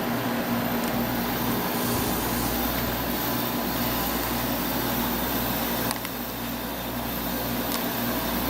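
White Westinghouse window air conditioner running just after being switched on: the fan blowing steadily over the compressor's low, even hum. A click and a slight drop in level come about six seconds in.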